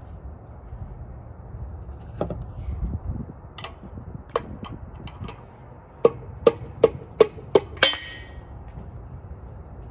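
Hammer striking metal: a few scattered knocks, then six quick ringing blows in a row, evenly spaced. They fall on the Honda F22C engine, where a broken connecting rod is jammed in the block and will not come free.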